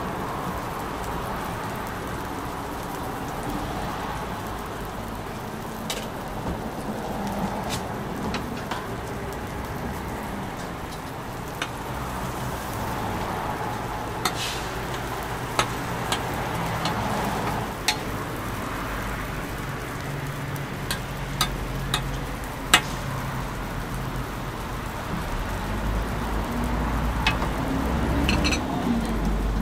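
Cabbage-and-egg omelette patties sizzling on a flat-top griddle, a steady frying hiss, with scattered sharp clicks of a metal spatula against the griddle. A low rumble swells near the end.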